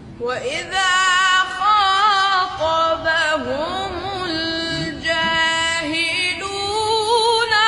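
Melodic Quran recitation (tajweed): a high voice chanting, drawing out long held notes with wavering ornaments.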